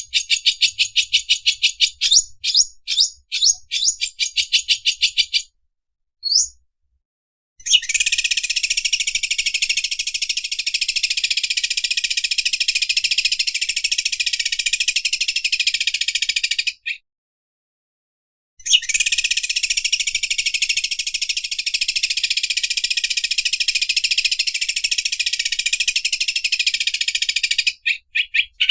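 Cucak ijo (green leafbird) singing its rapid, buzzing 'sewing-machine' chatter. It opens with a quick series of separate chirps for about five seconds, then, after a short pause, gives two long unbroken buzzing trills of about nine seconds each with a brief gap between them.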